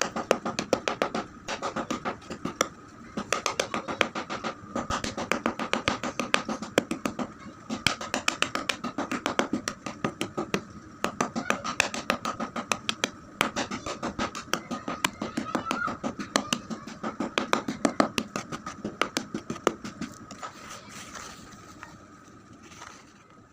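Chalk being crunched: rapid, crisp crunches several times a second, with a steady faint high hum underneath; the crunches grow sparser and fade away near the end.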